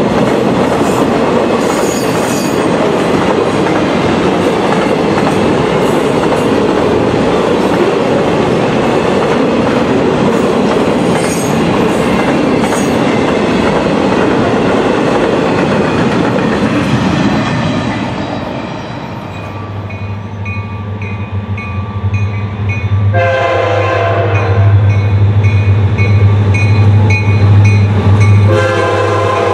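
Circus train passenger and stock cars rolling through a grade crossing with steady rail and wheel noise and clickety-clack, fading away after about 17 seconds. Then the crossing bell rings and an approaching diesel locomotive's engine hums low and steady. Its air horn sounds a long blast a little past two-thirds of the way through and another begins near the end.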